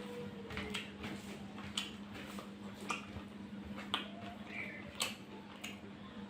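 Eating sounds: irregular wet clicks of chewing and lip-smacking, one or two a second, over a steady low hum.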